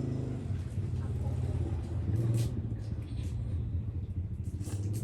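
A motor vehicle's engine running steadily with a low hum, with a few short clicks or scuffs about two seconds in and near the end.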